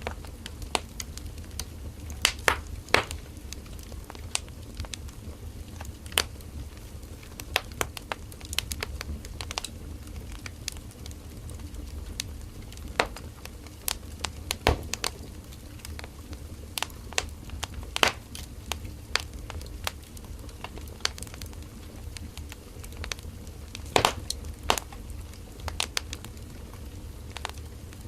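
Firewood burning in an open fire, crackling and popping irregularly over a low steady rumble of the flames, with small clusters of louder pops about two seconds in and again near the end.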